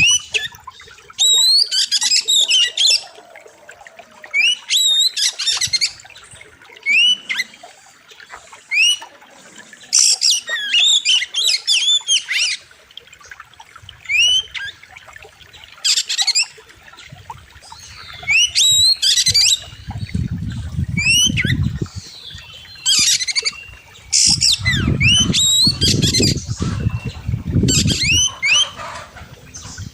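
Oriental magpie-robin singing loud, sharp bursts of rising whistles and quick chattering phrases, one burst every second or two with short pauses between. A low rumbling noise sits under the song in the second half.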